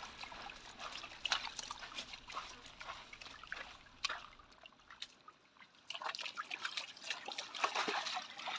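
Spring water trickling in a small channel, with irregular splashes as a border collie paws and digs in the water.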